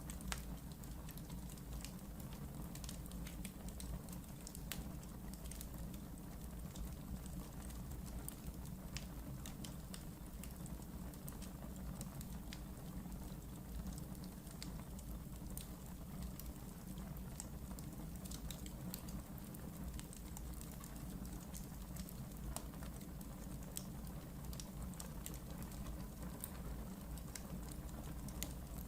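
Wood fire burning in a fireplace, crackling: a steady low rumble with frequent small sharp pops and ticks scattered throughout.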